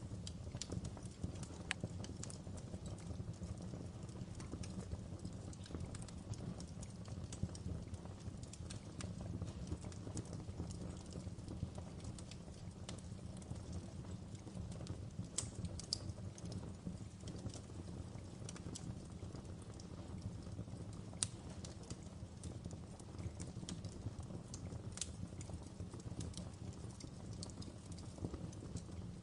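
Wood fire crackling in a fireplace: irregular sharp snaps and pops, a few louder than the rest, over a steady low rumble of the flames.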